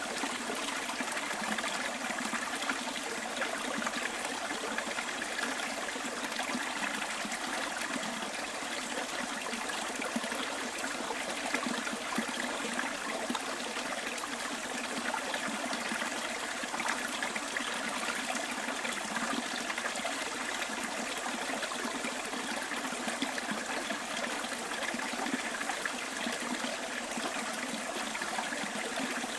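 A small stream trickling and running over rocks, a steady continuous babble of water with no low rumble.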